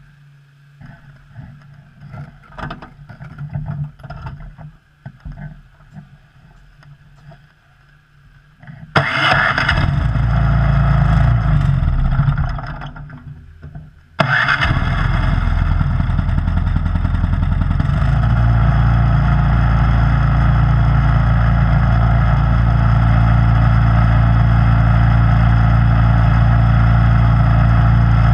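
Snowblower engine starting about nine seconds in after some quieter knocking sounds. It runs briefly, fades and nearly dies, then catches again abruptly and keeps running steadily.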